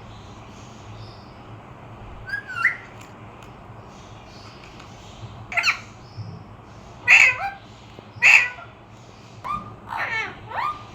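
Pet parrot giving a series of short, sharp squawking calls that sweep up and down in pitch, a few seconds apart at first and then closer together toward the end.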